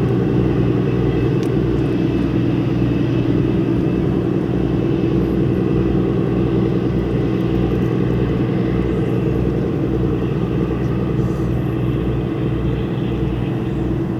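A large engine running steadily: a loud low drone with a slow, regular throb underneath.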